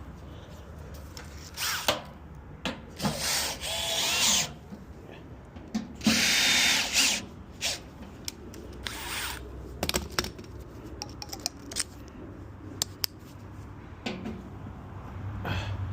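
Cordless drill/driver running in several short bursts, its motor whine rising as it spins up, with clicks and knocks of the work in between, over a steady low hum.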